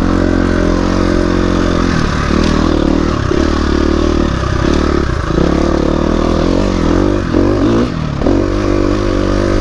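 Dirt bike engine running under the rider on a trail: steady for about two seconds, then the revs repeatedly drop and rise with the throttle before settling steady again near the end.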